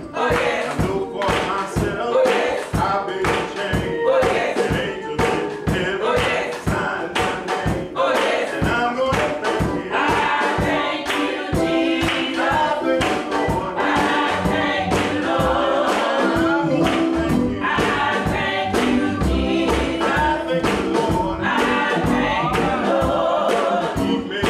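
Church choir singing a gospel song with instrumental accompaniment over a steady percussive beat.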